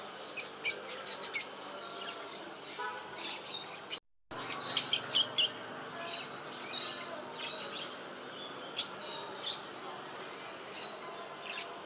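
Pet cage birds chirping in quick clusters of short, high notes, with scattered single chirps in between. The sound drops out entirely for a moment about four seconds in.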